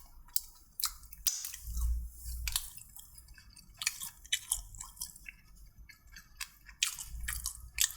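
A person chewing food close to the microphone, with irregular mouth clicks several times a second.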